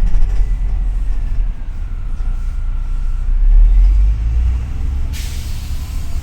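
Double-decker city bus running, heard from inside: a steady low rumble with a faint whine that falls and then rises in pitch, then about five seconds in a sudden hiss of released compressed air from the bus's pneumatic brakes or doors.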